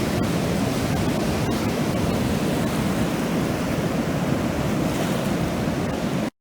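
Ocean surf washing steadily onto the beach, a continuous loud rush of breaking waves. The sound cuts out for an instant just before the end.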